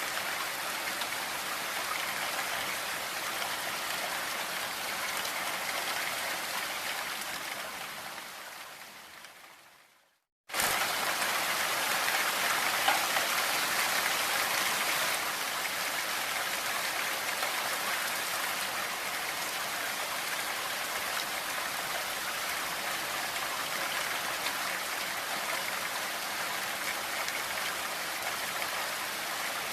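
Steady rain hiss blended with pink noise. About seven seconds in it fades out over three seconds, goes silent for half a second, then cuts back in abruptly at full level, like a loop restarting.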